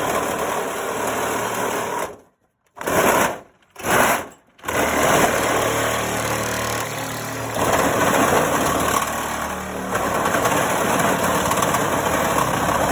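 Cordless power saw with a metal-cutting blade cutting through a dishwasher door and its plastic soap dispenser. It runs for about two seconds, is triggered in two short bursts, then runs on steadily from about five seconds in.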